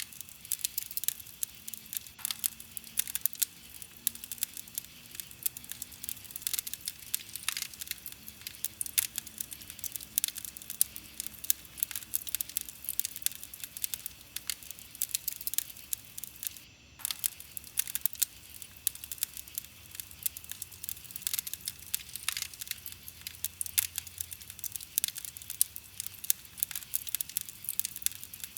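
Wood campfire crackling steadily, with dense irregular pops and snaps of burning wood. There is a brief near-gap about two-thirds of the way through.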